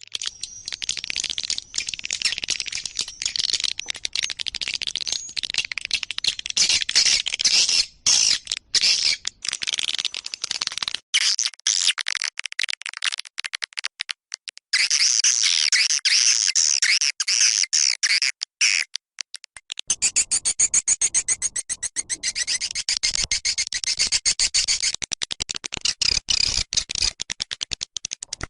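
Swiftlet calls from a swiftlet-house lure recording: dense, high twittering chirps mixed with rapid clicking. From about two-thirds of the way in, a fast, even run of clicks takes over.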